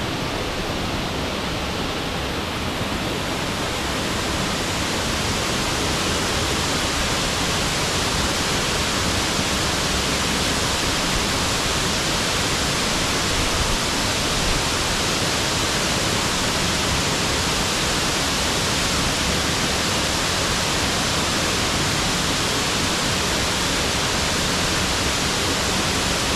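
Waterfall rushing steadily at close range, a dense, even hiss of falling water; it grows a little louder a few seconds in, then holds.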